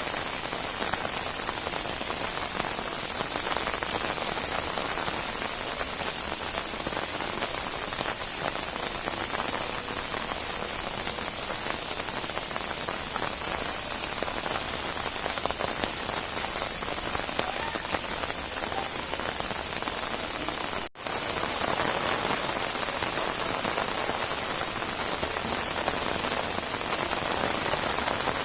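Steady rain falling hard on surfaces, a dense, even patter. About three-quarters of the way through it cuts out for a split second, then carries on as before.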